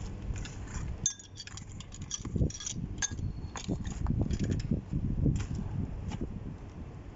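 Light metallic clinks and rattles, many in quick succession, from metal parts or tools being handled. They run from about a second in until near the end, over a low background rumble.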